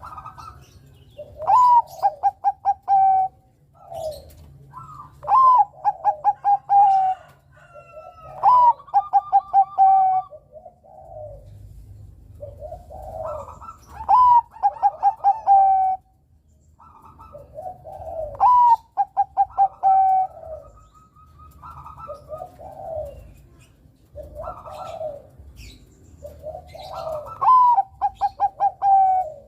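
Male zebra dove (perkutut, Bangkok song strain) cooing. It repeats its phrase about every four seconds: a rising opening note, a quick run of short stuttering notes, then a held note. Softer coos fall between the phrases, with a few faint high chirps.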